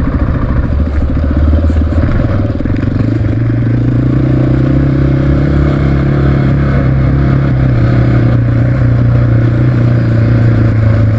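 Honda XR650R single-cylinder four-stroke dirt bike engine running under way, with wind rushing past. The engine note rises about two to three seconds in, then holds steady at cruising speed.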